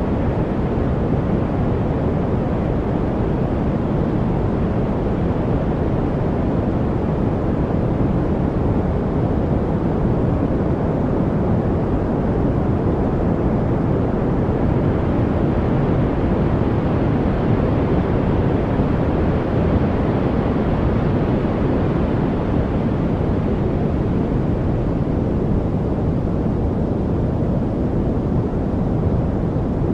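Steady, unbroken white-noise-style hiss, heavy in the low and middle range and thin at the top, with a slight brightening about halfway through.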